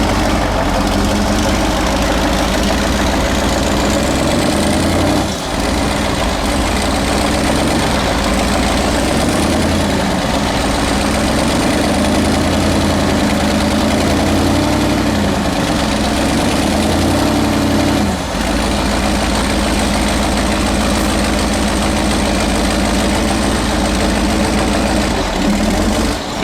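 Heavy off-road trial truck's diesel engine running, its pitch rising and falling with the throttle, with two brief dips about five seconds in and again near eighteen seconds.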